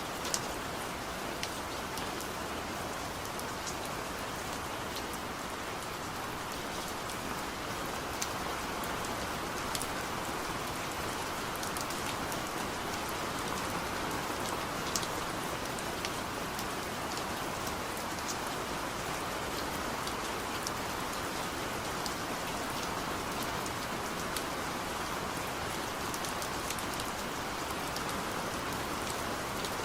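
Steady rain falling, a dense even hiss with scattered close drops ticking sharply on a surface.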